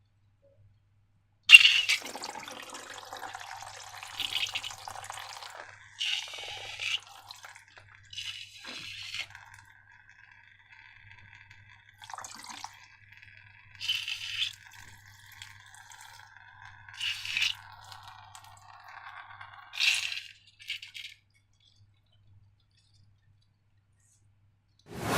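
Wet, sticky slime squelching and dripping as it is handled, in a series of short splats a couple of seconds apart after a sharp click near the start.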